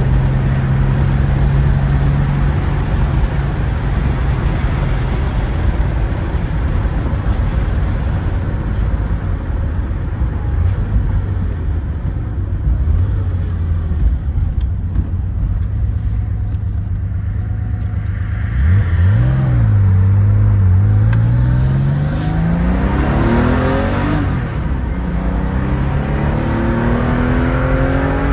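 1975 Porsche 911S's air-cooled flat-six running under way over road noise, holding steady revs for most of the time. In the last third the revs dip, then climb, drop at a gear change and climb again as the car accelerates.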